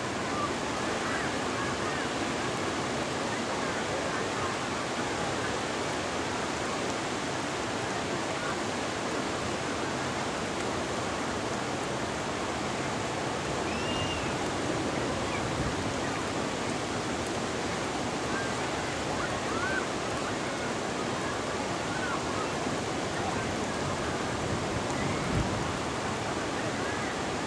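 Ocean surf breaking and washing ashore in a steady, dense rush of water.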